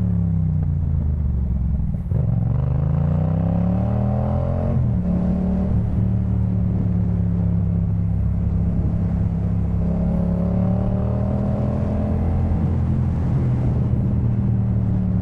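2018 Yamaha MT-07's 689 cc parallel-twin engine through a Jeskap K4 full exhaust, heard while riding. Revs fall, then break briefly about two seconds in. They climb until about five seconds in, break again, then hold nearly steady at a cruise.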